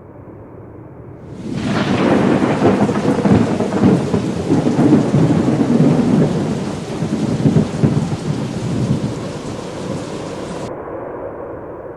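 Rain falling with a long roll of thunder that swells about a second and a half in and rumbles for several seconds before slowly fading. Near the end the hiss of the rain cuts off suddenly, leaving a duller low rumble.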